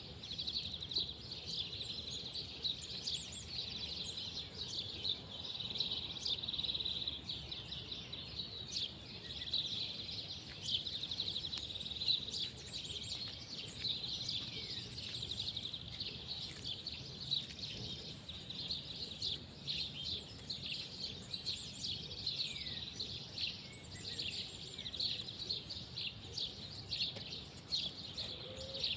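Outdoor birdsong: many small birds chirping and twittering continuously, a dense chorus of high, quick calls and short falling notes over a low, steady rural background.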